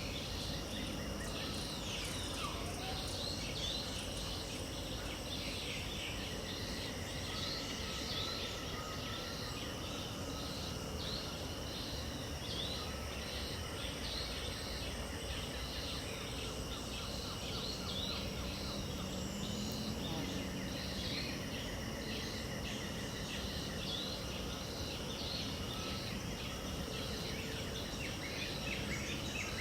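Pantanal wetland ambience at dawn: many birds calling and trilling over a steady, high-pitched drone of insects.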